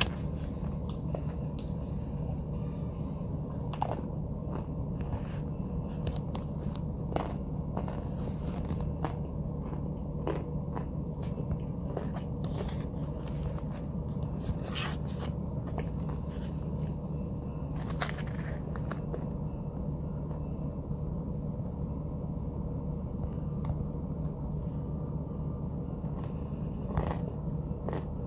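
Close-up chewing and crunching of powdery white chunks, scattered crisp crunches at irregular intervals, a few louder ones around the middle. A steady low hum runs underneath.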